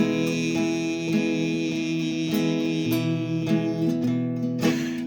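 Acoustic guitar playing the song's accompaniment between sung lines, with plucked and strummed notes over a held note.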